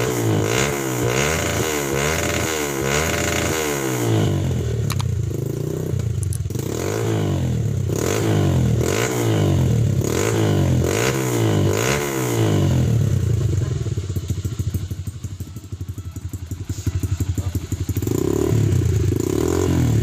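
Trail motorcycle engine fitted with a homemade 'roncador' exhaust, its throttle blipped repeatedly so the revs rise and fall about once a second. About two-thirds of the way through it drops back to a quieter, lumpy idle, then the revving starts again near the end.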